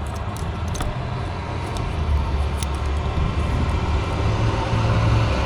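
Steady low rumble of a vehicle or road traffic, growing slowly louder, with a few faint clicks.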